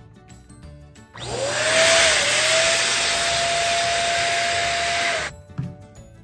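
Electric balloon pump running for about four seconds, inflating a balloon: a blowing rush with a whine that rises as the motor spins up, then holds a steady pitch until it cuts off.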